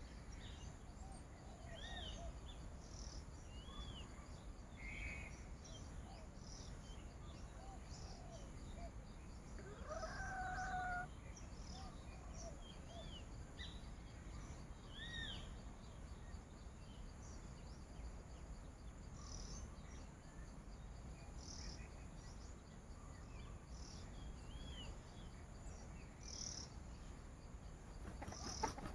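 Wild birds chirping and calling over a faint hum of insects, with one louder, longer pitched call about ten seconds in and a few sharp knocks near the end.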